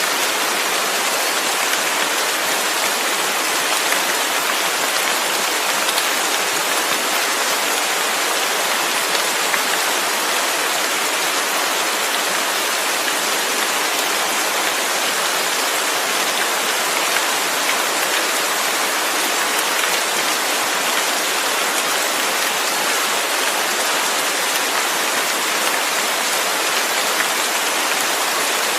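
Steady heavy rain: a dense, even hiss of falling rain with no breaks or changes.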